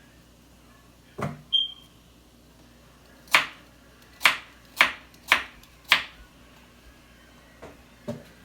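Knife chopping on a cutting board in slow, separate strokes: about eight sharp knocks, a run of five between three and six seconds in, with one short ringing clink a little after a second in.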